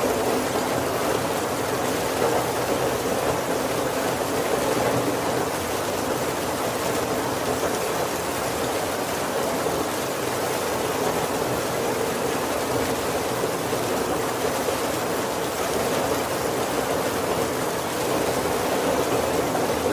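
Heavy rain falling steadily on a wooden carriage roof: an even, unbroken wash of rain noise with no thunder.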